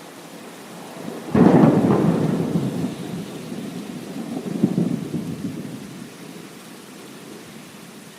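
A thunderclap breaks suddenly about a second in and rolls on as a rumble that swells again midway before fading, over a steady hiss of rain.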